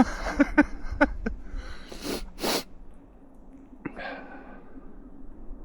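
Crunching footsteps in powder snow, then two quick, sharp blasts of breath like sneezes about two seconds in.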